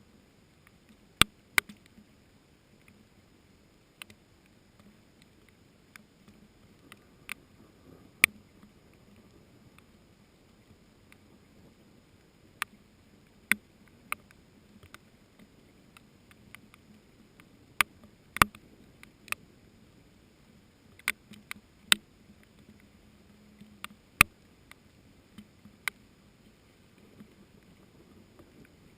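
Large raindrops dripping close by as sharp, irregular taps, one every second or two, over a faint steady hiss of rain.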